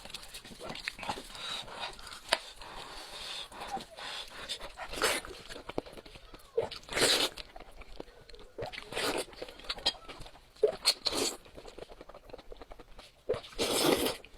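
Close-up eating noises from a goat's head in spicy sauce: quiet chewing, broken by short loud noisy mouth sounds every couple of seconds, the longest and loudest near the end.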